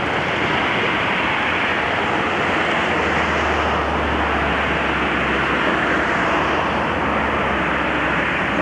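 A railway train running: a loud, steady noise with no clear beat, and a low hum that grows stronger about three seconds in.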